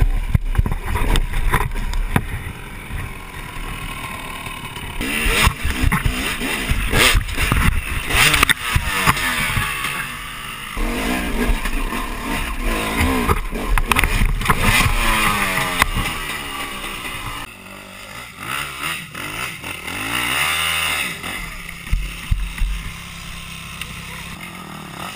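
Dirt bike engine revving hard, its pitch rising and falling again and again, with the sound changing abruptly several times.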